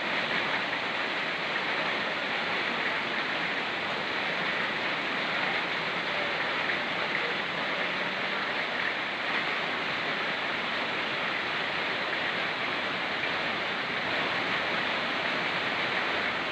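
Steady rushing of a fast-flowing mountain river, with rain falling in the forest around it.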